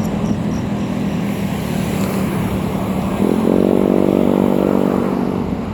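A motor vehicle engine runs steadily throughout. About three seconds in, a second engine sound with a steadier, higher tone comes in with a short rise and holds for about two seconds.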